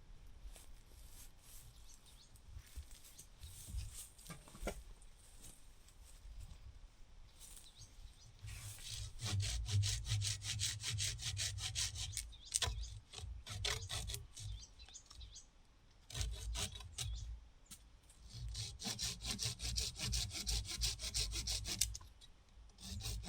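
Hand saw cutting wood in quick back-and-forth strokes. There are two bouts, the first starting about a third of the way in and the second after a short pause, with lighter scraping before them.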